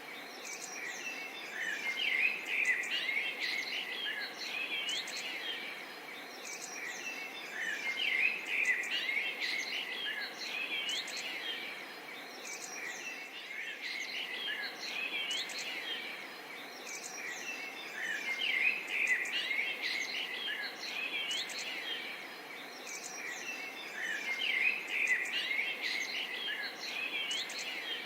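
A chorus of many small birds chirping and calling over a steady background hiss, thickening into busier bursts of chirps every five or six seconds.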